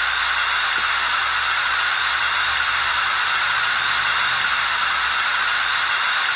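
ESU LokSound sound decoder in an HO-scale EF210 electric locomotive model, playing a steady hiss of electric-locomotive running noise through its small speaker, with a faint low hum underneath that shifts a few times.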